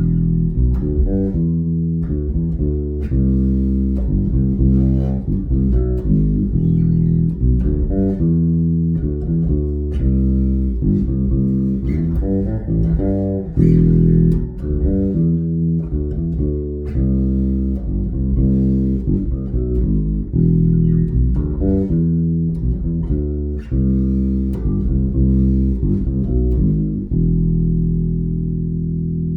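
Custom Fender American Deluxe Precision Bass played through a Markbass Little Mark Tube amp, set on its bridge pickup with the mids turned up for more bite. It plays a quick line of separate notes and ends on one held, ringing note.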